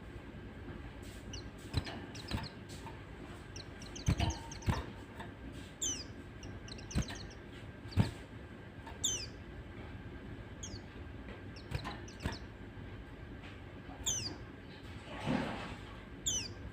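White-eyes (pleci) giving short, high, falling chirps, single or in quick pairs, every second or so. Sharp clicks and knocks come in between, the loudest about eight seconds in.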